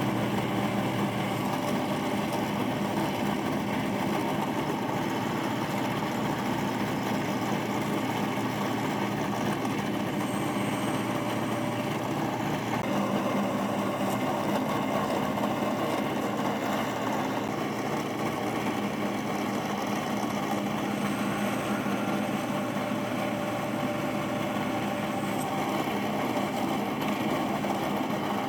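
Restored vintage drill press's electric motor running steadily with a constant hum, its tone shifting slightly about halfway through.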